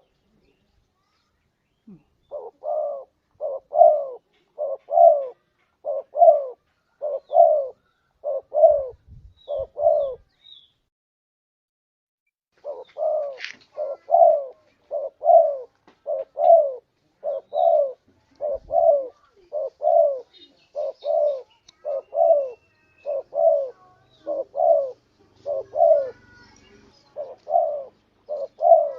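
Spotted dove (tekukur) cooing: a long run of short coos, roughly one a second, breaking off for about two seconds around ten seconds in and then carrying on steadily.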